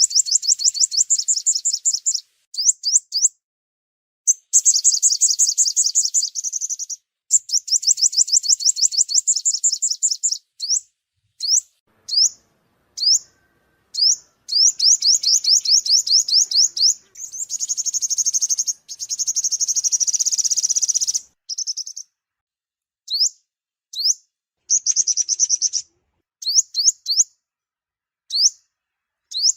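A sunbird (the Vietnamese 'five-colour' sunbird) singing: fast, high trills of quick down-slurred notes, each run lasting a few seconds, with single sharp notes between them. A denser, buzzier trill comes about two-thirds of the way through.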